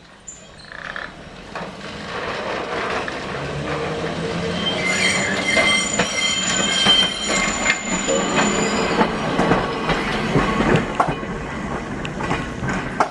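Heritage electric tram running along the track, growing louder over the first few seconds as it gathers speed, with clicking and rattling from the wheels on the rails. A high wheel squeal sounds from about five to nine seconds in.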